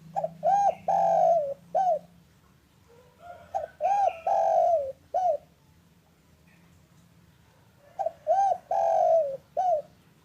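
Spotted dove (derkuku) cooing. There are three phrases, about three to four seconds apart, and each is two short coos, a long drawn-out coo and a short closing coo.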